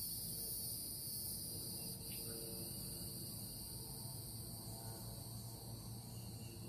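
Steady, high-pitched chorus of insects trilling without a break, over a low background hum.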